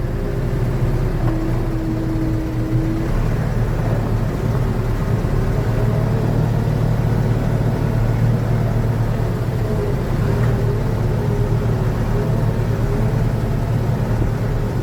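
Steady low drone of a motor vehicle's engine running, with an even noise behind it.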